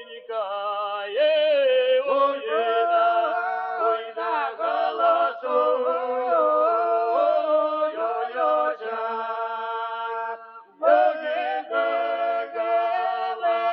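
Background music: unaccompanied singing with long, gliding held notes, broken briefly about ten and a half seconds in.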